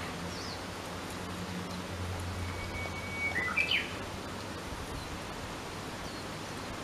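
A songbird sings one phrase: a long, steady whistled note of about a second, then a quick, higher flourish. Under it runs a steady outdoor hiss.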